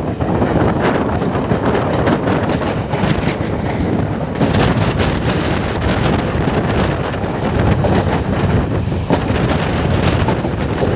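Wind buffeting the microphone over the steady rumble of a passenger train running at speed, with the wheels clattering on the track in places.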